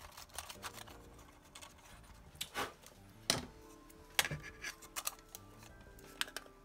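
Light clicks and taps of a Panasonic RQ-SX30 cassette Walkman's shell being fitted back together and handled, with a few sharper knocks in the middle, over soft background music.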